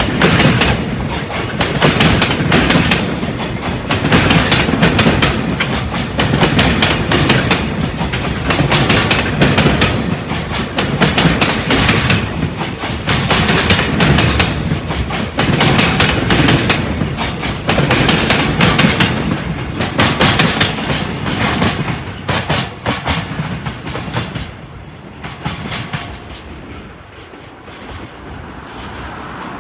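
EH500-hauled freight train running past, its wagons' wheels clattering in a steady clickety-clack over the rail joints, dying away a few seconds before the end as the last wagons pass.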